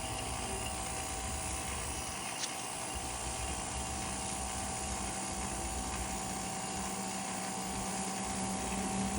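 Running furnace giving off a steady mechanical whir and hum, with one small click about two and a half seconds in.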